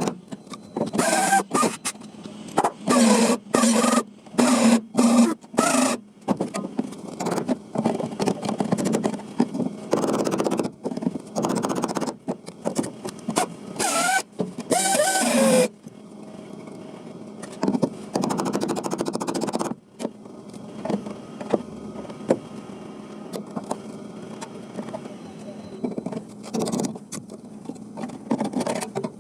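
Sheet-metal work on a rusted car floor panel: a power tool runs in repeated short bursts, then in longer runs in the middle.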